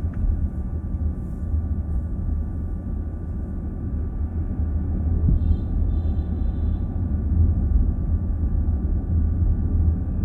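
Steady low road and engine rumble inside a moving car's cabin, with a faint brief high tone about five and a half seconds in.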